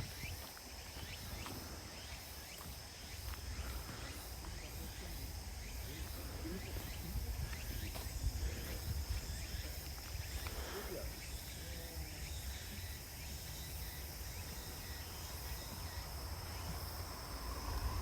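Insects shrilling in woodland: a continuous steady high-pitched tone, with the footsteps of someone walking along a path and a low rumble of wind or handling.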